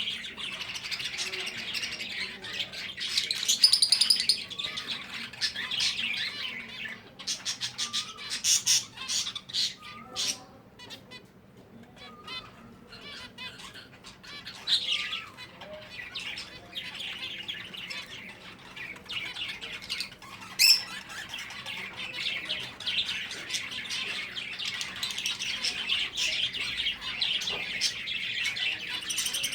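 Finches chirping and calling in dense overlapping chatter, which thins out for a few seconds around the middle to scattered short calls and clicks before building up again.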